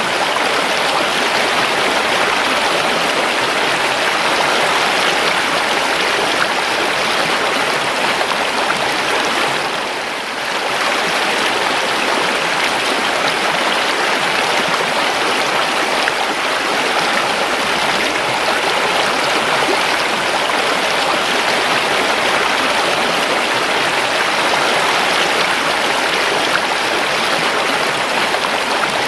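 River water flowing in a steady, even rush, briefly softening about ten seconds in.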